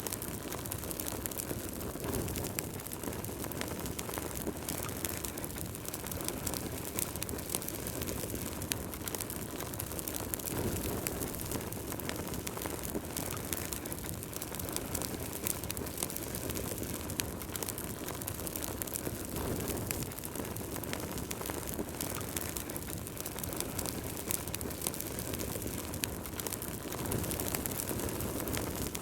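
Wood fire burning in a fireplace: continual crackling with many small sharp pops over a steady low rush of flame.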